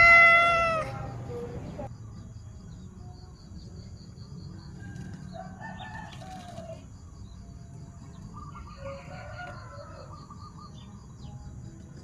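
A domestic cat meows once, loudly, right at the start. Two fainter, drawn-out animal calls follow later, each lasting over a second.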